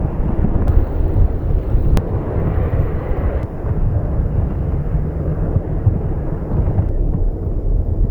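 Strong, gusty wind: a loud, deep rumble that swells and eases, buffeting the microphone.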